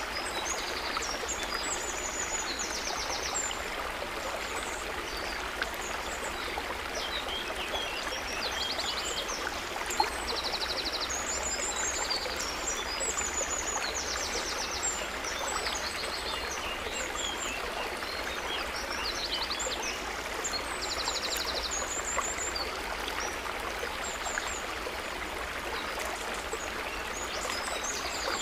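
Gently babbling, trickling water, steady throughout, with small birds chirping over it and a short rapid trill several times.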